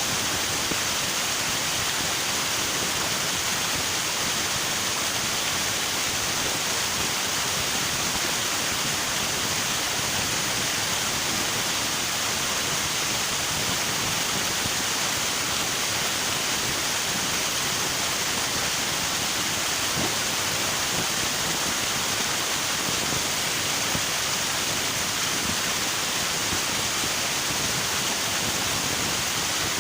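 River water rushing: a steady, unbroken noise with no changes or distinct events.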